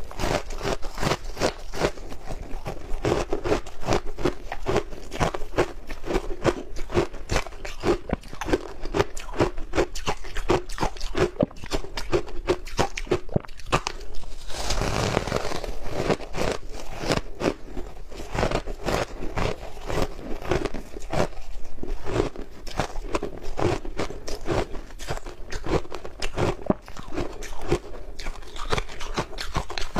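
Ice cubes dusted with matcha powder being bitten and chewed close to the microphone: dense, continuous crunching and cracking. A fuller, heavier crunch comes about halfway through.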